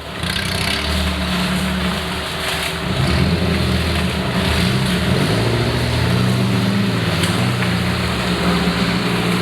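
Off-road 4x4's engine running hard under load, its pitch rising and falling as the throttle is worked.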